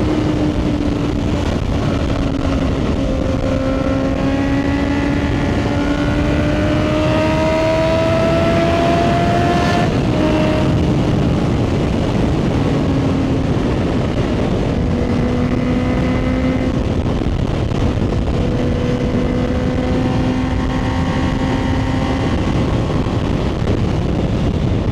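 Motorcycle engine pulling at road speed under heavy wind and road noise on the rider's microphone. Its note climbs slowly, then steps down about ten seconds in and again a few seconds later.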